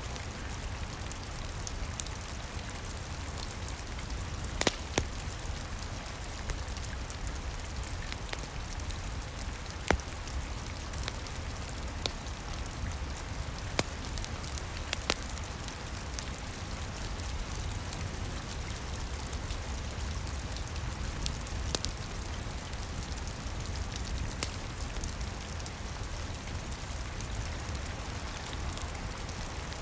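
Steady rain with a fireplace crackling, sharp pops a couple of seconds apart over the even hiss of the rain.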